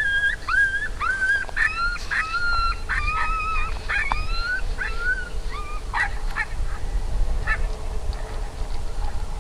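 High, whimpering canine yelps in a quick repeated string, each cry rising and then holding, thinning out after about five seconds, over a low rumble.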